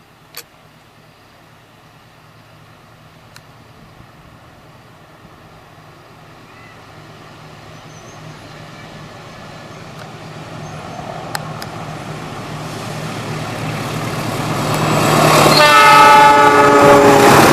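An approaching Indonesian diesel train growing steadily louder, its engine a low hum, then blowing its horn in a chord lasting about two seconds near the end as it draws close.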